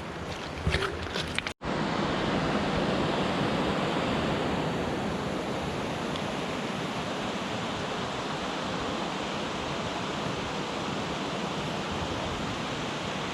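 Steady rushing of a river. Before a sudden break about a second and a half in, a few scattered clicks sit over the water noise.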